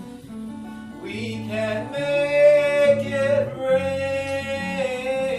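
Live band music with a sung melody: a voice sings a short phrase, then holds one long note from about two seconds in, over a steady bass line that changes notes about once a second.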